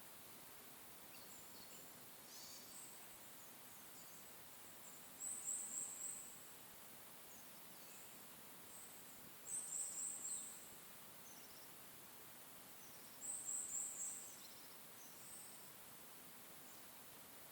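A small bird singing a short, very high-pitched phrase of quick notes three times, about four seconds apart, with fainter high calls in between, over a steady soft hiss of forest ambience.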